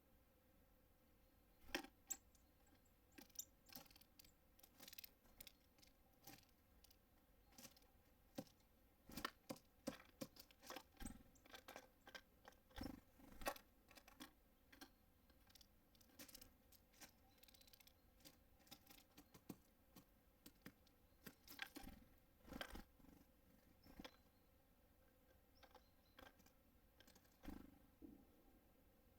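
Irregular taps, clicks and scratches of small birds at a feeder, pecking at seeds. They come in uneven clusters, some sharp and close, with short lulls between them.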